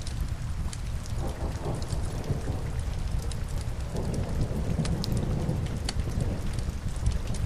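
Steady rain with a low rumble underneath, and sharp pops and crackles from burning logs in a fireplace scattered throughout.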